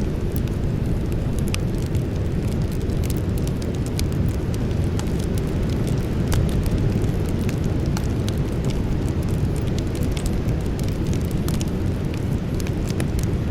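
Campfire burning, with a steady low rumble of flame and frequent sharp crackles and pops from the burning wood.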